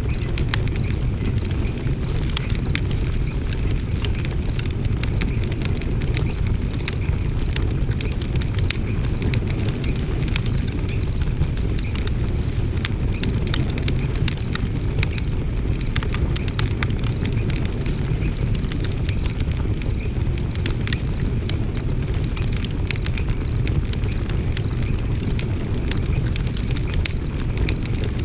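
Wood fire burning in a fire stand: a steady low rumble of flames with frequent sharp crackles and pops. A high, evenly pulsing trill runs underneath throughout.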